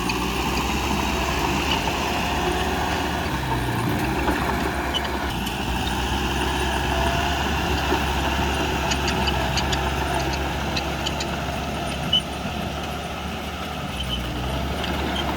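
Heavy diesel engine of earthmoving equipment running steadily, with scattered light clicks and clanks and one sharp knock about twelve seconds in.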